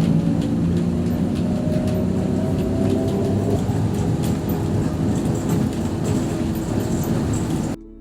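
Steady, loud mechanical rumble with a low droning hum, of the kind heard inside a moving vehicle.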